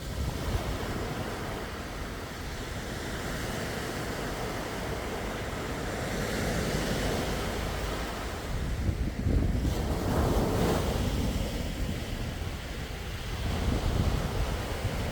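Sea waves washing onto the shore, swelling and receding every few seconds, loudest about two-thirds of the way in, with wind rumbling on the microphone.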